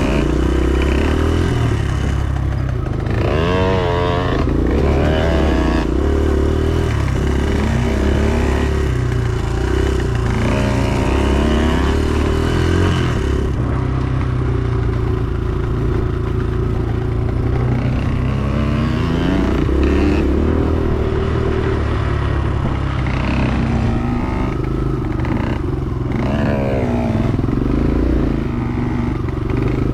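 Dirt bike engine running under load and revving up and down over and over, its pitch rising and falling repeatedly.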